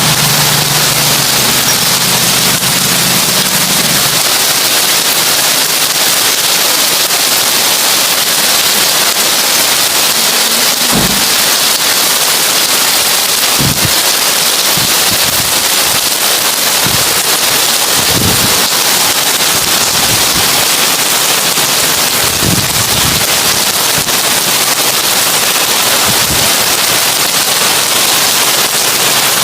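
Heavy rain on a tin roof: a steady, dense patter of drops on the metal, with a few deeper thuds here and there. A low hum sounds under it for the first few seconds.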